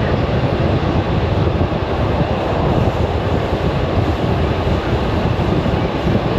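Steady rumble and rush of a commuter electric train running along the track, heard from inside the carriage.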